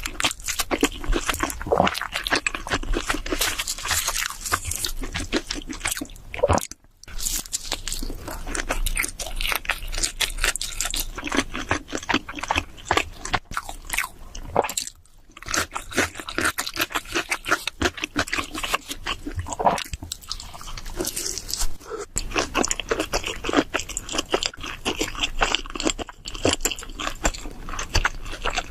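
Close-miked eating of a cheese seafood pizza: continuous biting and chewing, broken by two short pauses, about seven and fifteen seconds in.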